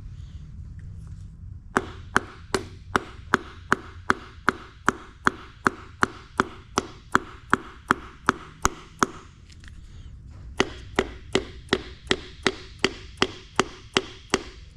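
Quick, even taps on a piston crown, driving the piston down through a ring compressor into the cylinder bore of a GM 2.5 L four-cylinder, about two or three taps a second, with a short pause in the middle. The piston is sticking on a hard spot, which the builder puts down to the ring compressor being clamped too tight.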